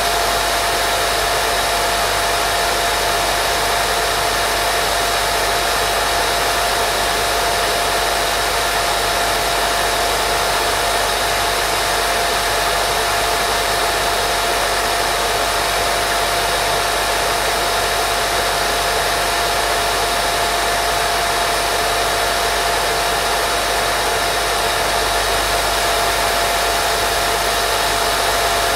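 Steady white noise for baby sleep: an even, unbroken hiss with a steady mid-pitched tone running through it.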